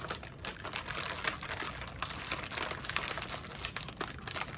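Plastic cookie packaging crinkling and crackling in the hands as it is opened, a dense run of irregular crackles.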